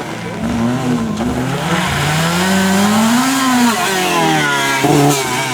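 Rally car engine revving hard, its pitch climbing steadily for a couple of seconds and then dropping away, with two short sharp cracks near the end.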